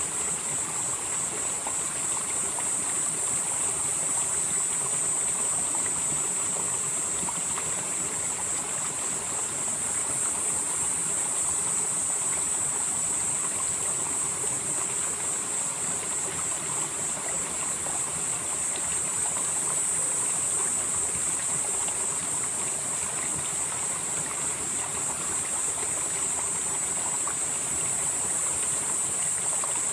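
Mountain stream flowing steadily through a valley, with a high hiss on top that swells and fades slowly about every ten seconds.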